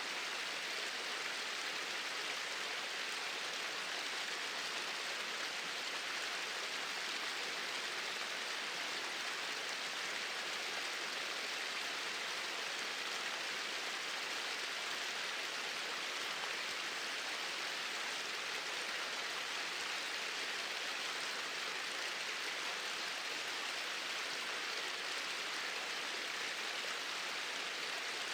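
Small waterfall pouring in a straight flow: a steady, even rush of falling water with no pauses or changes.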